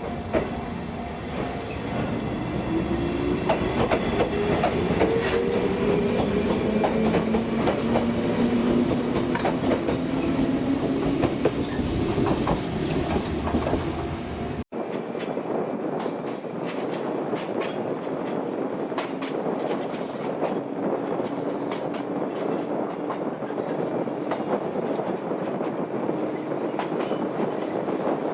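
Old JNR-type electric train running on the rails, its motor hum rising in pitch over the first several seconds. About halfway through there is an abrupt cut to a steadier running noise with scattered clicks of the wheels over rail joints.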